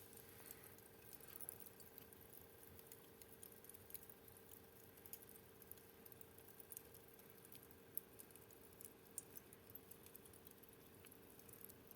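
Fire crackling faintly, with scattered small snaps and pops.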